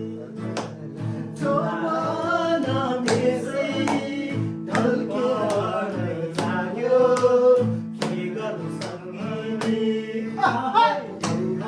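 A Nepali folk song, sung to strummed acoustic guitar.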